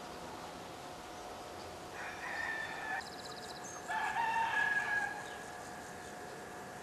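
A bird calling twice, about two and four seconds in; the second call is louder and lower.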